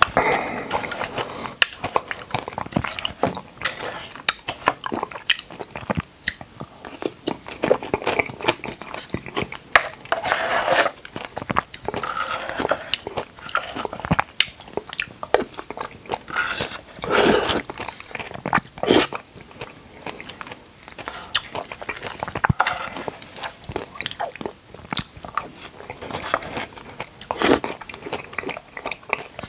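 Close-miked mouth sounds of a person eating red dragon fruit: irregular wet chewing, smacking and crunching bites.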